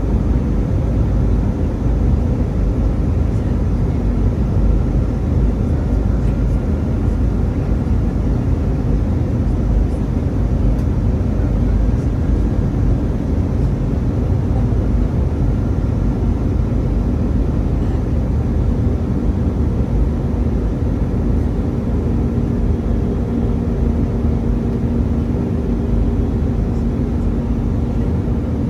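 Steady rumble of an Airbus A319 in flight: engine and airflow noise as heard on board. A low hum comes in about two-thirds of the way through.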